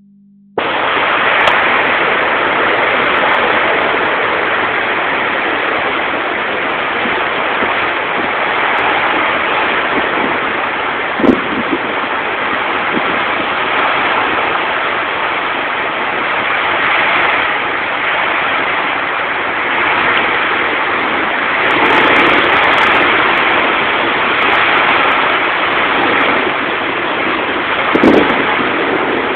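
Hurricane wind and rain: a loud, steady rush that swells and eases in gusts, with a brief knock about 11 seconds in and another near the end.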